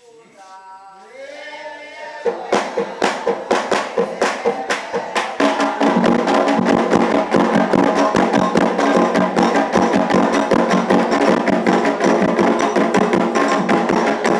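Candomblé ritual drumming: a voice in the first two seconds, then a fast, dense rhythm of hand-drum and percussion strikes starts about two seconds in. It grows louder over the next few seconds and goes on steadily with voices singing over it.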